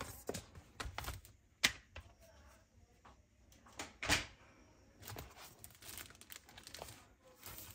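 Unboxing handling noise: packaging and accessories being handled, with scattered sharp clicks and taps and light crinkling and tearing of wrapping.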